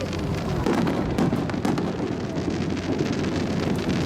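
Fireworks display: low booms with dense crackling throughout.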